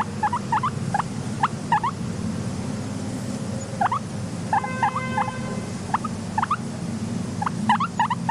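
Guinea pigs squeaking: short, rising squeaks in quick clusters, with a steadier held tone about halfway through, over a steady low hum.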